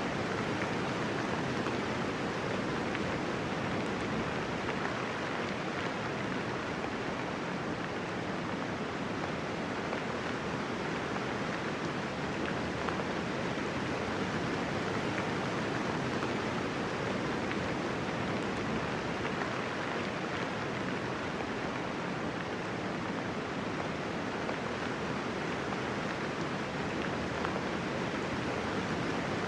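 Steady rainfall, an even hiss of many drops with no distinct splashes or thunder.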